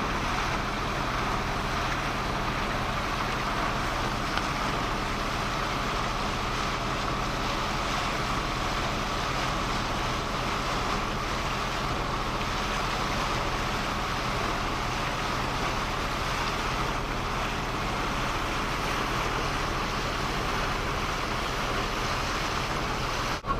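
A boat's engine running steadily while under way, a constant low drone under a continuous rushing wash of water and air.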